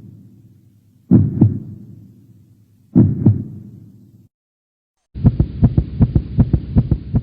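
Heartbeat sound effect: two slow, heavy lub-dub beats, each fading away, then after a short pause a fast, racing heartbeat of quick low thumps for about two seconds, cut off abruptly.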